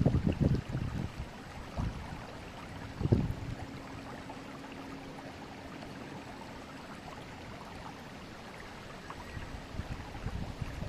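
Forest river water flowing steadily, with irregular low rumbles at the start and again near the end. A faint steady hum sits in the middle of the clip.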